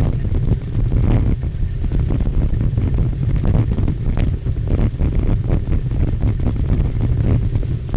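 Wind rushing over the microphone of a cyclocross bike on the move, a steady low rumble, with frequent short knocks and rattles from the bike jolting over rough ground.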